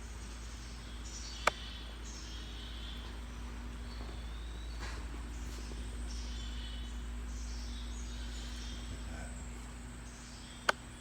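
Short chirping bird or insect calls, high-pitched and repeated, over a steady low rumble, with two sharp clicks, one about a second and a half in and one near the end.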